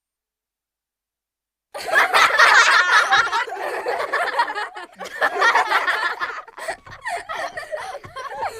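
Silence, then about two seconds in a laughter sound effect starts abruptly and runs on, with a short break about five seconds in.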